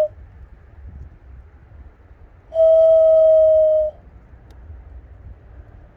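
A person whistling one long, steady bird-calling note of about a second and a half, starting about two and a half seconds in and sinking very slightly in pitch at the end.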